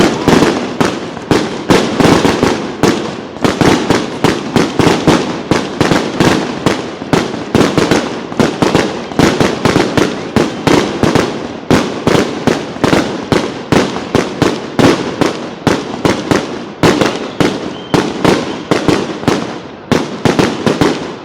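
Fireworks going off in a rapid, unbroken run of loud bangs, several a second, with no pause between them.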